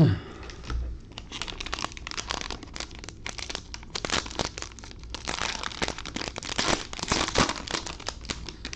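Plastic wrapping on a box of sports card packs being torn open and crinkled by hand: a dense, irregular crackling with sharp snaps.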